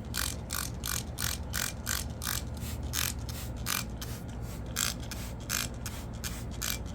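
Stiff scrub brush scrubbing a greasy, grimy surface in quick back-and-forth strokes, about three or four a second.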